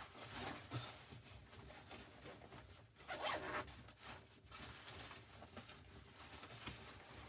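Faint rasping and rustling, a few short bursts with the longest about three seconds in.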